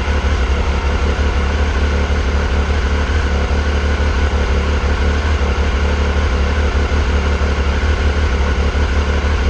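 2001 Triumph Sprint ST 955i's fuel-injected three-cylinder engine running at a steady speed, with a strong low hum and no change in pitch.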